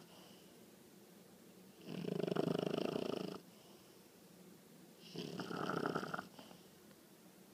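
A 20-week-old English bulldog puppy snoring in her sleep: two snores, each lasting a second or more, about two seconds apart.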